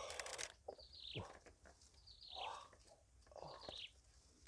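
Faint bird chirps, short high calls that fall in pitch, repeated about every second, with a few light knocks and rustles from hands working among leaves and a nest.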